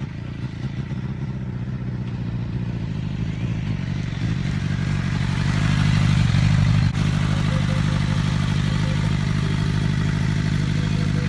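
Suzuki GSX-R 750 inline-four motorcycle engine running through its Yoshimura exhaust. It grows louder over the first six seconds, drops briefly about seven seconds in, then runs steadily.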